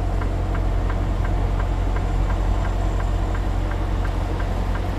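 Semi truck's diesel engine running at idle, heard from inside the cab during slow backing, with a faint regular ticking about four times a second.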